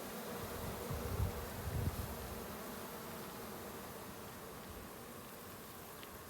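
Honeybees from a disturbed colony buzzing in a steady drone that slowly fades.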